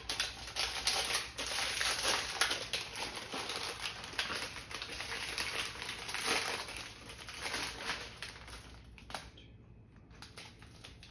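Plastic cookie packaging crinkling and rustling as the pack is opened, dying away near the end.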